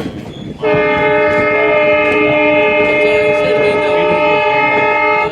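Diesel locomotive's air horn sounding one long, steady blast of several tones together. It starts sharply about half a second in and cuts off suddenly at the end, over the rumble of the moving train.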